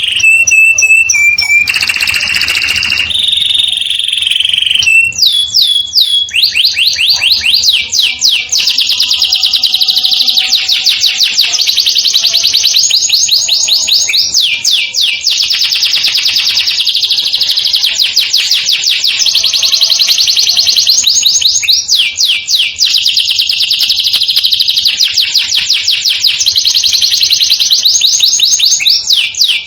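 Domestic canary singing: a few held whistled notes and a short harsh burst at first, then long, fast rolling trills repeated almost without pause.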